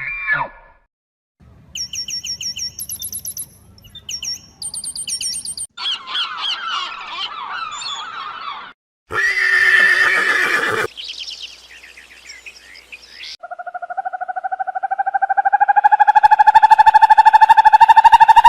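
A run of different animal calls one after another: rapid high-pitched chirps, a harsh noisy call, then a long rapidly pulsing call lasting about six seconds that grows louder near the end.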